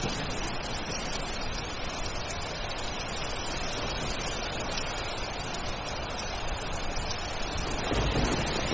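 Steady heavy rain. A low rumble of thunder starts to build near the end.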